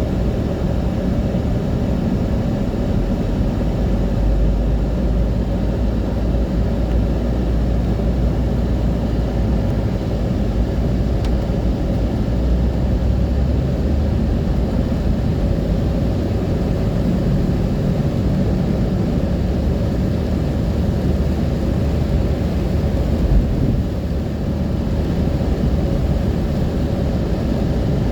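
Steady low rumble of a moving car, with road and engine noise running evenly throughout.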